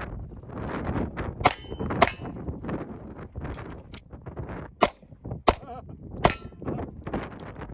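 Five gunshots at uneven spacing, two close together early on and three more a few seconds later, some followed by a short metallic ring of a steel target being hit. Gusting wind buffets the microphone throughout.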